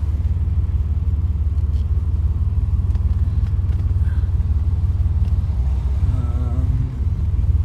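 Porsche 964's air-cooled flat-six engine running at low revs in first gear while the car creeps along, a steady low rumble. A brief wavering higher tone comes in about six seconds in.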